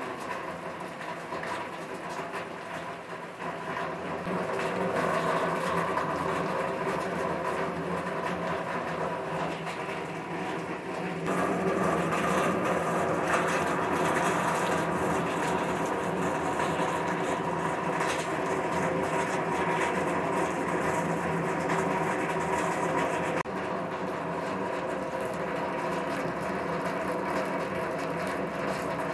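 Heavy rain pouring down, a steady rushing noise that swells about four seconds in, grows louder again about eleven seconds in and drops back abruptly later on.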